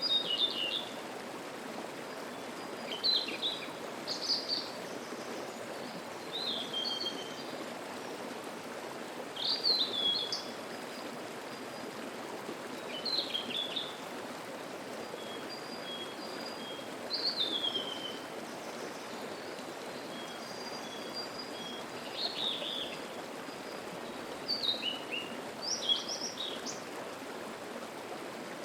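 Mountain stream babbling steadily, with a songbird singing short, high, mostly falling phrases about every two to four seconds.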